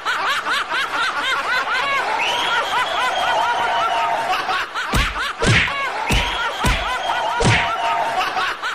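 High-pitched giggling laughter sound effect, fast and repeating in a loop. A few low thumps come in the second half.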